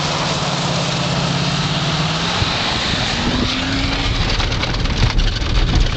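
Pickup truck engine running, its pitch settling after a drop and holding steady, then giving way to a heavier low rumble with a string of knocks and rattles in the last second or two.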